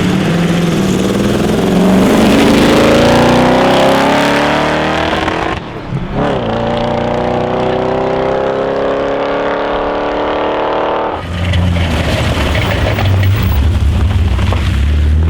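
Rally car engine under hard acceleration, its pitch climbing through a gear, dropping briefly at a gear change and climbing again through the next. Near the end it gives way abruptly to a lower, steadier engine drone.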